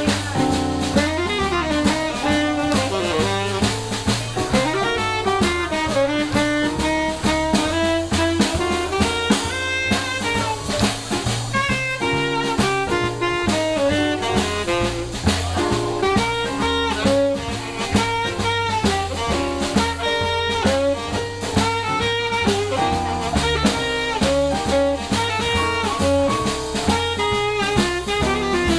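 Live jazz band playing: saxophone lead over drum kit and bass, in a steady swing.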